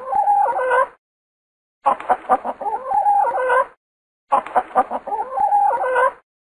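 Chicken clucking: a quick run of clucks ending in a longer drawn-out call, the same recorded call heard three times with short silences between.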